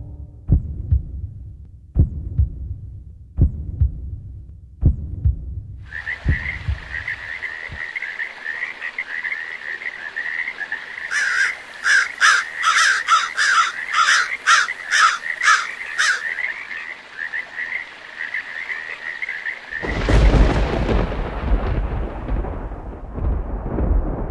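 A sequence of sound effects. First come slow, evenly spaced low thumps. A steady high trill then sets in, with a run of rapid pulses in the middle. About twenty seconds in comes a sudden loud rumble that slowly fades.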